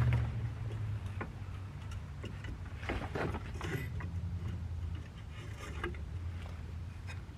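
Scattered clicks, taps and scrapes of metal and plastic parts being handled and fitted while installing a new rear hub assembly and its ABS sensor. A low rumble underneath is loudest at the start and eases off after about a second.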